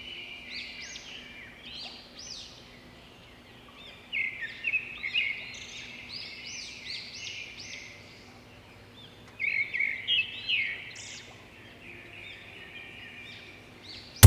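Songbirds chirping: a stream of short, rapidly repeated high notes, with two louder flurries, about four seconds in and again near nine to eleven seconds.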